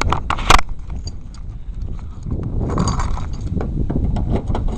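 Car trunk lock and latch clicking sharply twice as the trunk is unlocked, followed by handling noise and a low rumble.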